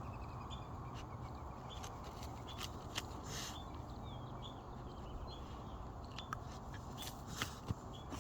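Ground squirrel giving short, high alarm chirps over and over, about one every half second, with sharp scrapes and knocks from a dog digging and biting at the burrow, the loudest about three seconds in and near the end.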